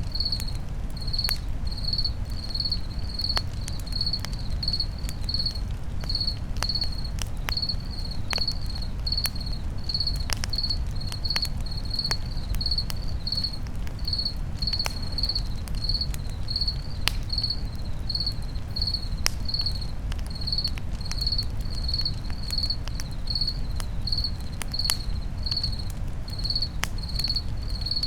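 Crickets chirping steadily, a little under two chirps a second, over a crackling campfire whose scattered pops and sharp snaps sit on a steady low rumble of the flames.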